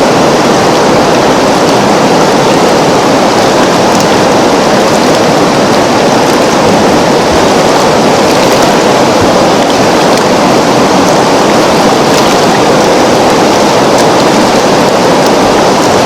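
River water flowing: a steady, even rushing with faint scattered ticks of droplets.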